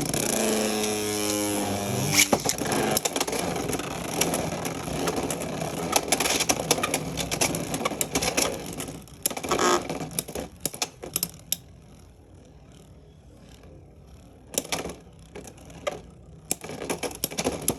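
Two Beyblade X tops launched into a plastic stadium: a short whir from the launchers, then several seconds of rapid clashing and rattling as the tops collide, settling to a quieter spin with a few sharp knocks near the end.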